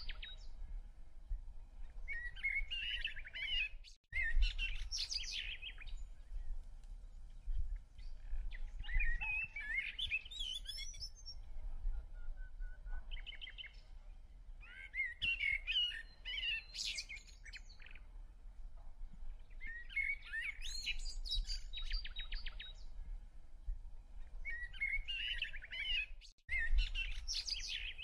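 Songbird singing: short phrases of quick chirps and trills, repeated every few seconds, over a faint low rumble.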